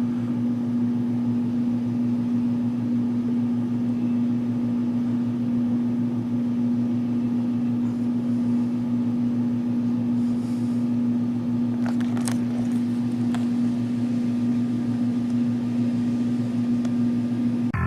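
Steady low electrical hum of a running machine, with a couple of faint clicks about twelve seconds in.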